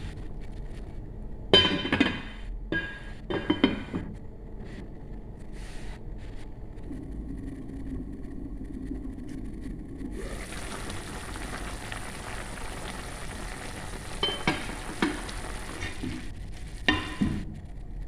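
A cooking utensil clinking and scraping against the pan while the string beans are stirred into the simmering adobo sauce. From about ten seconds in the pan gives a steady sizzling hiss, with a few more clinks of the utensil near the end.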